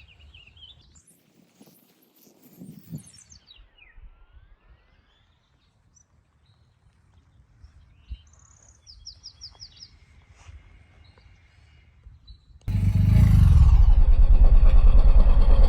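Faint bird chirps over quiet background, then a loud, steady engine-like rumble starts abruptly near the end.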